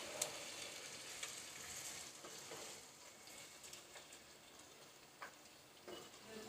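Mutton pieces and sliced onions sizzling faintly in hot oil while being stirred, with a few light knocks of the spatula against the pot. The sizzle dies down after about three seconds.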